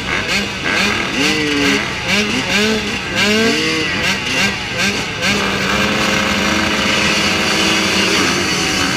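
Motocross motorcycle engines revving in quick repeated blips, each rising and falling in pitch, then held at steady revs from about five seconds in.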